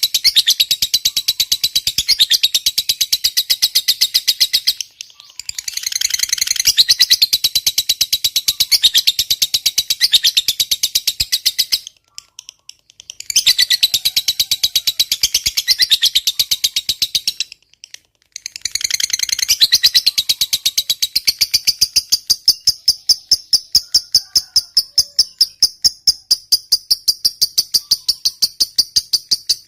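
Lovebird giving the long 'ngekek' song: a loud, rapid, shrill chattering trill in long runs, broken by three short pauses. Near the end it settles into a more even, steady-pitched run.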